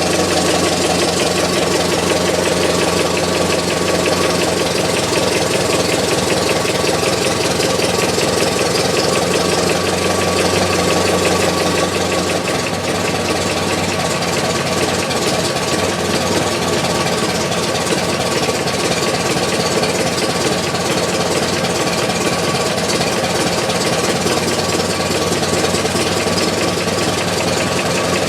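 1919 Ford Model T's four-cylinder flathead engine running steadily, heard close up from inside the firewall, with a regular knock in its rhythm that sounds like an engine knock on an engine with less than 1000 miles since its rebuild.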